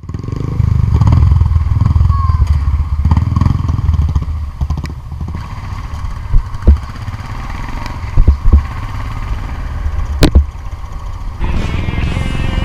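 Motorcycle engine running with a steady low rumble, loudest in the first few seconds and then settling lower. Several sharp thumps come in the second half.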